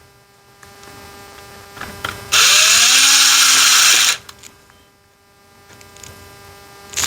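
Cordless power screwdriver running in a burst of about two seconds, its motor pitch rising then holding steady, driving a T10 Torx screw into an instrument cluster. A few light clicks come before and after it.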